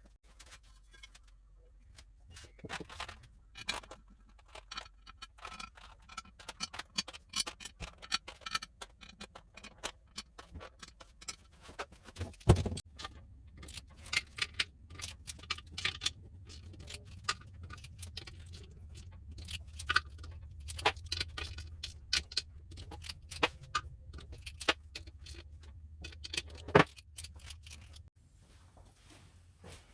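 Metal tools and engine parts clinking and knocking during hands-on mechanical work, in irregular clusters with one louder knock about twelve seconds in. A low steady hum runs underneath through most of the second half.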